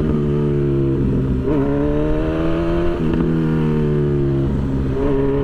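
Honda CB1000 motorcycle's inline-four engine pulling under way. Its pitch climbs, then drops back at about one and a half seconds, about three seconds and near the end, as with gear changes.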